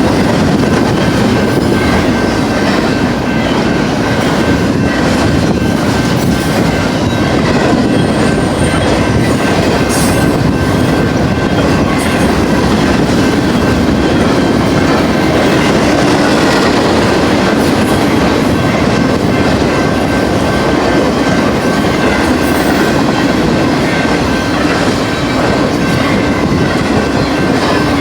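Freight train of intermodal container and trailer cars rolling past at speed, its wheels clacking over the rail, with a thin steady squeal from the wheels.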